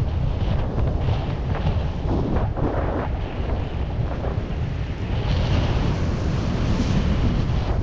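Strong wind buffeting the microphone of a paraglider in flight, a steady low rush with no break.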